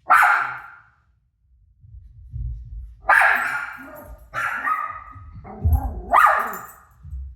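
A dog barking: four sharp barks, one right at the start and three more a second or so apart in the second half.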